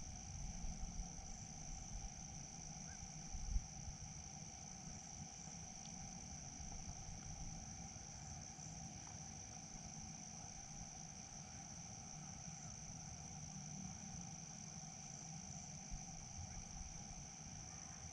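Crickets or similar insects calling in one continuous high trill, with a second, lower steady drone beneath it and a faint low rumble.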